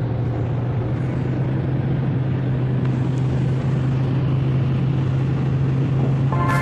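A steady low motor hum with a continuous rushing noise over it.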